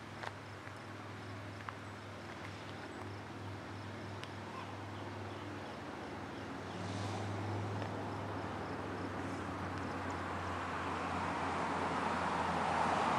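Approaching train: a steady low hum under a rushing rumble that grows steadily louder, with no horn yet.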